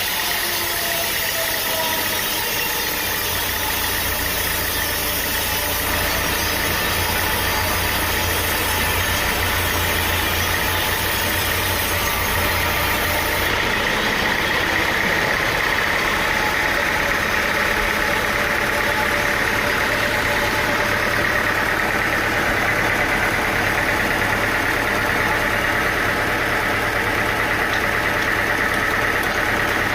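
Steady running of engine-driven machinery, with a brief falling whine in the first couple of seconds. The sound changes character about 13 seconds in.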